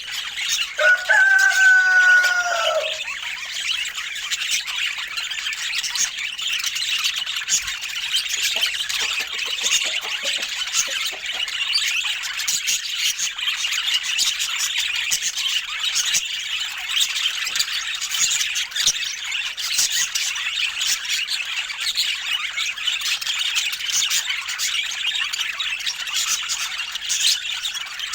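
A flock of budgerigars chattering and twittering non-stop in a dense, high-pitched stream. About a second in, a louder, lower drawn-out call with a drooping end sounds for about two seconds.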